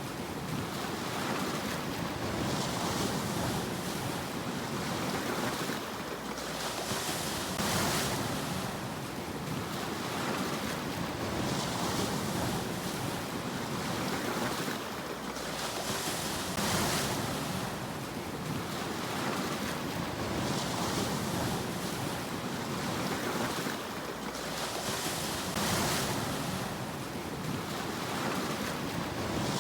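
Sea waves washing onto the shore in a continuous surf noise, a wave swelling and breaking about every four to five seconds.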